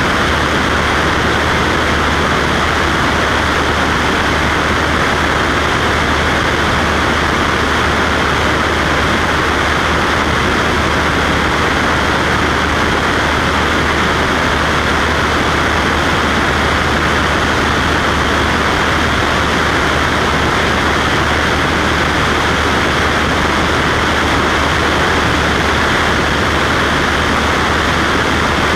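Cessna Skywagon's single piston engine and propeller droning steadily in flight, with a low hum under a strong even hiss of engine and air noise, unchanging throughout.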